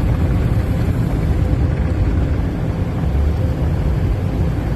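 Automatic car wash machinery running: a loud, steady rumble with a faint steady whine above it.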